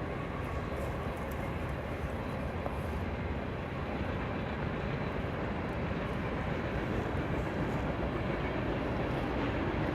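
Freight train rolling past: a steady rumble of wheels on rail, getting slightly louder toward the end.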